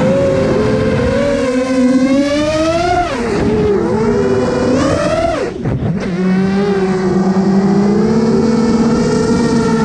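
FPV quadcopter motors whining, the pitch of the whine rising and falling with the throttle. About five and a half seconds in, the pitch drops away sharply and then climbs back.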